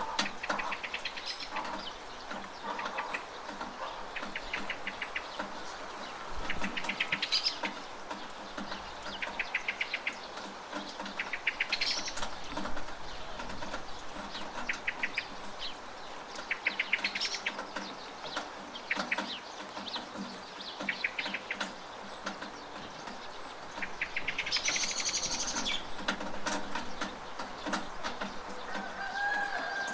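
Steady rain with birds calling. A bird repeats a short, fast rattling trill every couple of seconds, a brighter burst of chirps comes about two-thirds of the way in, and a falling call sounds near the end.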